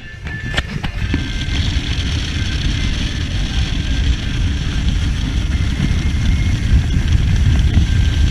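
Motorboat running under way: a steady rumble with rushing hiss over it, growing gradually louder.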